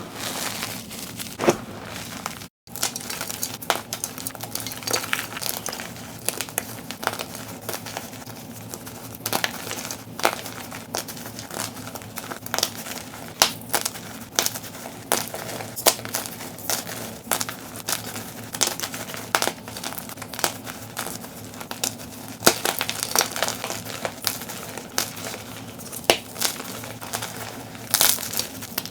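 Blocks of dyed BSN gym chalk being crushed, a dense run of irregular soft crunches and crackles, played at double speed. The sound cuts out for an instant about two and a half seconds in.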